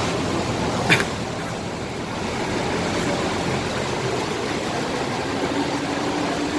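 Buses and traffic running at a bus terminal, a steady engine hum with road noise. About a second in there is a short, sharp click with a hiss.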